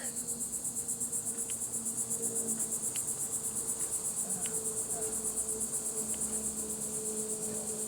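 Insects calling in a steady, high-pitched, pulsing chorus at about five pulses a second, with a faint low steady hum beneath.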